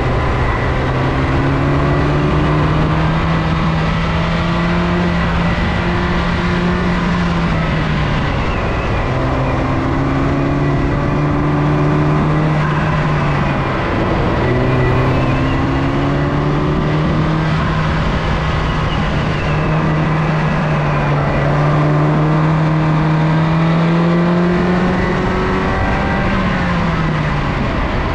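R56 MINI Cooper S turbocharged four-cylinder engine pulling hard on an autocross course, its pitch climbing steadily and then dropping sharply three times as the driver lifts or shifts, over steady road and tyre noise. The engine is running without boost because a check engine fault has disabled the turbo.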